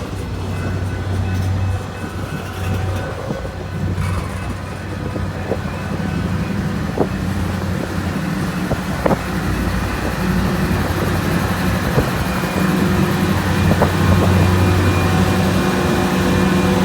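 Diesel locomotive running with a steady low engine hum that slowly grows louder. A few short, sharp metallic clanks come from the train, about 5, 7, 9, 12 and 14 seconds in.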